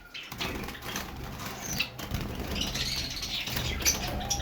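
Caged Java sparrows moving about: rustling and wing flutter with a few faint chirps.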